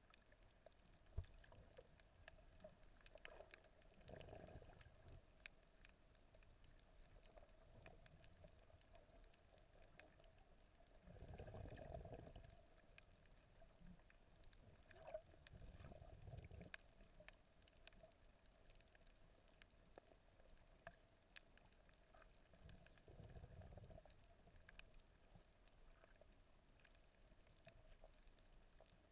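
Faint, muffled underwater sound of a snorkeller's camera in the sea: low water surges from the swimmer's movement come and go about five times, the strongest about twelve seconds in, over a faint steady hum with scattered soft clicks.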